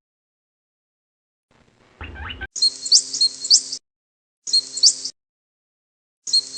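Bird chirping: high, quick chirps in three short bursts that start and stop abruptly, with a steady low hum beneath them.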